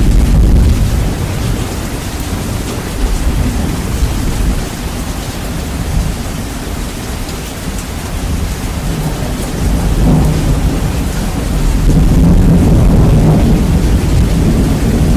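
Rain falling steadily with rolling thunder, bass boosted so the deep rumble dominates and is very loud. The rumble swells at the start, eases through the middle and builds again over the last few seconds.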